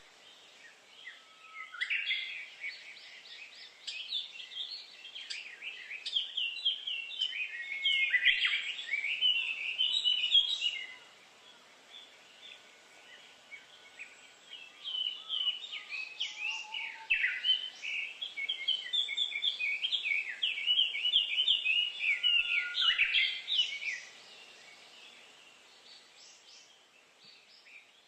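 A songbird singing in two long bouts of rapid, varied chirping notes, with a quiet outdoor background between them.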